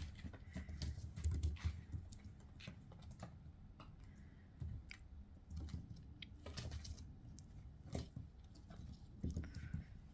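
A kitten playing at a curtain: irregular light taps, clicks and rustles from its paws and claws, with a few soft thumps.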